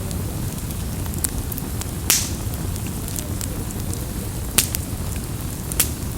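Campfire wood crackling, with sharp pops scattered through and a louder hissing pop about two seconds in, over a steady low rumble.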